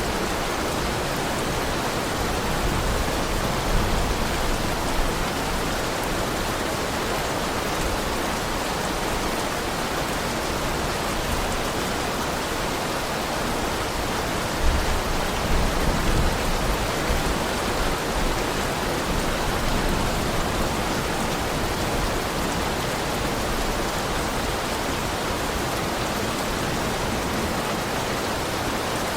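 Steady heavy rain, an even hiss, with a couple of brief low rumbles.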